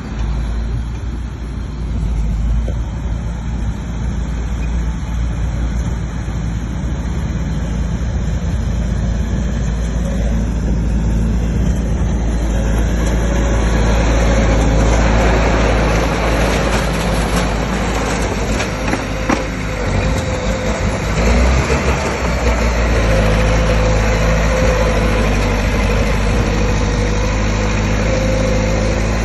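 Bulldozer's diesel engine running with a deep steady rumble that grows louder and fuller about halfway through.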